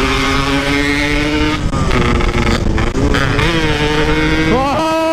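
Two-stroke motorcycle engine running under way, heard over heavy wind noise. The engine note holds steady, drops out briefly a few times as the throttle is eased, then climbs sharply in pitch near the end as it revs up.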